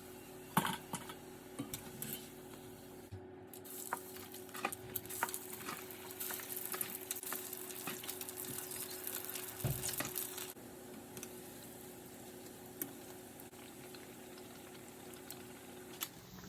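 Food deep-frying in hot oil: a crackling sizzle full of small pops that dies down about two-thirds of the way through, with a few sharp kitchen-utensil clicks and taps around it.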